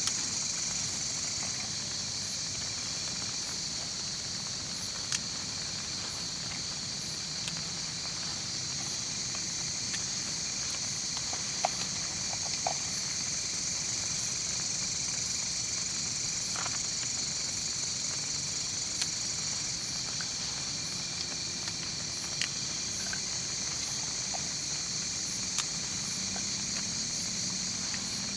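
Night insect chorus: a steady high-pitched buzzing of crickets, with a faster pulsing chirp above it and a few scattered sharp ticks. A faint low drone rises near the end.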